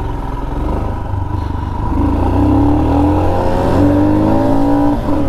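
Motorcycle engine accelerating under way, its pitch rising steadily from about two seconds in, over wind rush.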